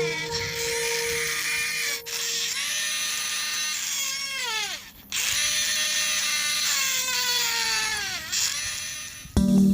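Small electric motor whining steadily, its pitch sinking twice; it cuts out for an instant about five seconds in and picks straight back up.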